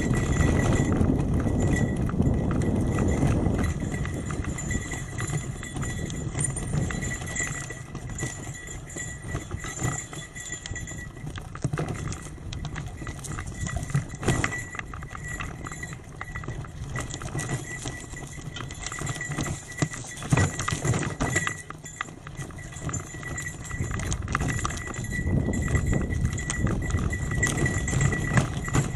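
Hybrid bicycle rattling and clattering over a rough gravel forest road: a dense run of small knocks over a low rumble, louder for the first few seconds and again near the end.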